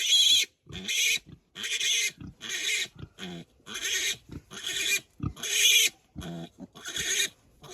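A young piglet screaming while held and restrained, a shrill squeal repeated roughly once a second. The piglet is being handled to tame it and is protesting.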